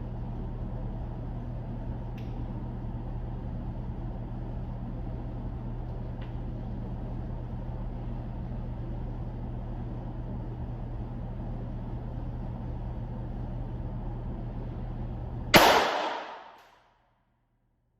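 A single shot from a .45-calibre handgun, sharp and sudden with about a second of ring-out, over a steady low hum. The hum and everything else cut off shortly after the shot.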